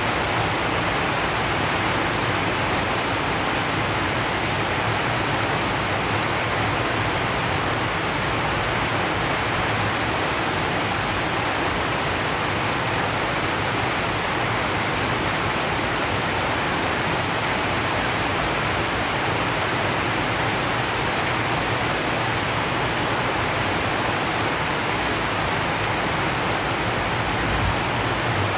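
Rain falling on a zinc sheet roof, an even, unbroken hiss with no single drops standing out.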